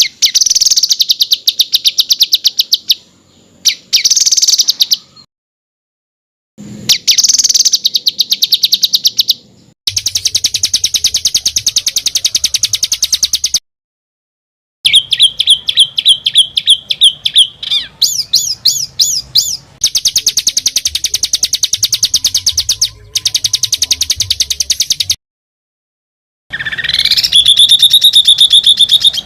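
Spliced recordings of songbirds making rapid, harsh rattling trills and fast runs of repeated chips, the kind of phrases used as masteran for competition songbirds. Each segment cuts off abruptly into silence. Near the end a whistle rises and is then held steady.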